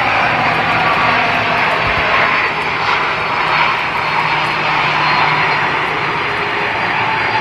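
Airliner jet engines running loud and steady, an even rush with a faint steady whine on top.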